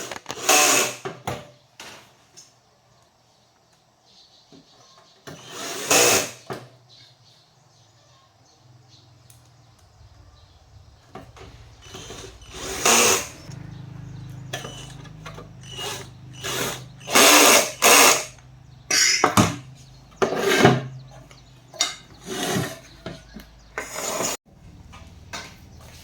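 A power tool run in repeated short bursts of about half a second to a second each, at irregular gaps. A low steady hum sits underneath from about ten seconds in.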